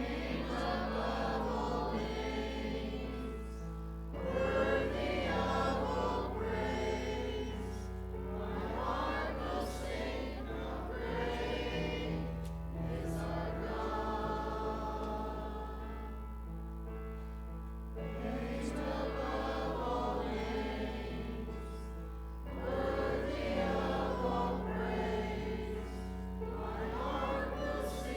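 A group of voices singing a hymn in sung phrases a few seconds long, with short breaks between them, over instrumental accompaniment that holds steady low notes.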